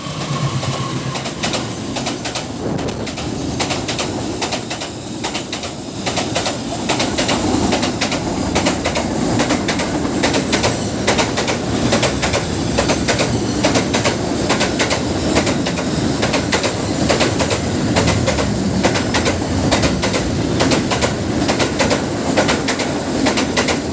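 Train passing close by: the steady rumble of its wheels on the rails with a rapid clatter of clicks, getting louder about six seconds in and staying loud.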